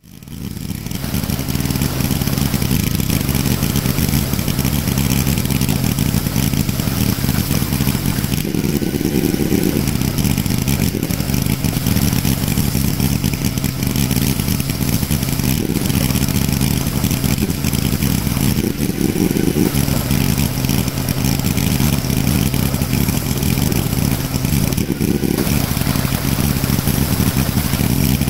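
The 18 hp Kohler Command CV18S V-twin engine of a 1998 Craftsman GT garden tractor running steadily, its tone shifting briefly a few times.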